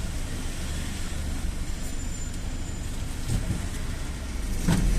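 GAZ-A68R52 City minibus on the move, heard from inside: a steady low rumble of engine and road noise, with a sharp knock near the end.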